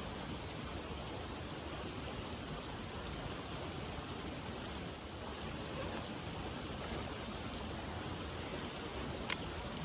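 Steady, even rushing noise with no distinct tones, and a single sharp click about nine seconds in.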